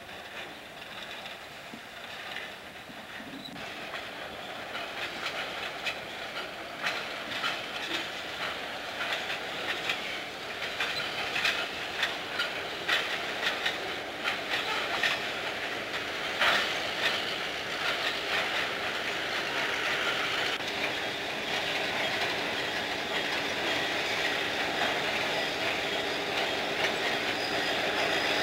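Freight cars rolling past slowly, their wheels clicking over rail joints with some wheel squeal. It grows steadily louder, and a steady diesel engine drone comes in over the last several seconds as the ex-Chessie EMD Geep locomotive draws near.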